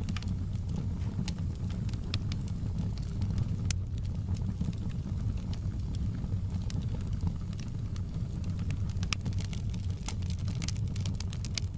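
Wood fire crackling in a fireplace, with sharp irregular pops and snaps over a steady low rumble of the flames. The crackles come thicker near the end.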